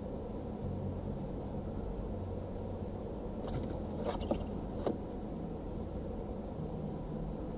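Steady low hum inside a car idling at a standstill, with a few light clicks about halfway through.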